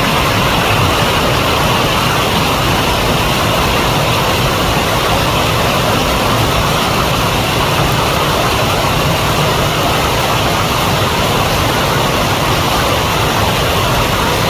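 River water flowing, a loud steady rushing that does not change.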